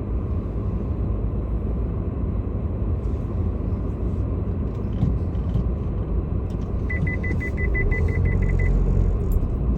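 Steady low rumble of a car, heard from inside it. About seven seconds in, the car's electronic warning beeper gives a quick run of about a dozen short high beeps, roughly six or seven a second.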